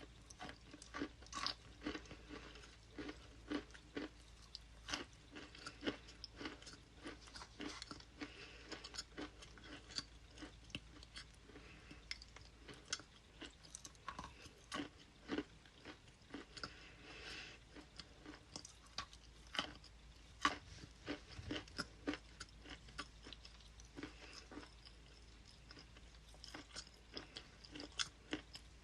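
Close-miked chewing with irregular crisp crunches as something hard and brittle is bitten and ground between the teeth.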